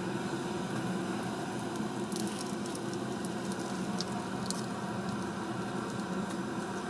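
Kindling catching in a fireplace firebox at its first firing: a steady rush of burning under a strong draft, with a few sharp crackles about two and four seconds in.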